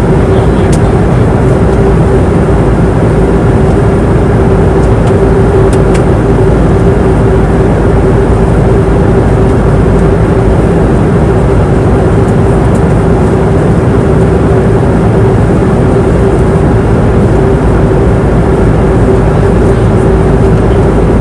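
Steady cabin noise of an airliner in flight: a loud, even rush of engine and airflow noise with a constant hum, and a couple of faint clicks.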